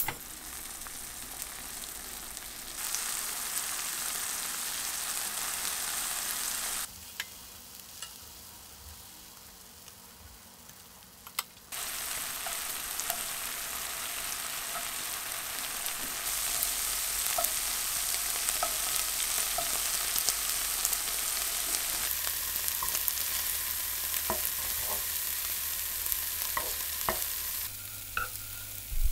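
Shredded cheese sizzling as it melts and fries in a nonstick frying pan, a steady hiss that steps louder and quieter a few times, dropping low for a few seconds near the middle. A few light clicks near the end.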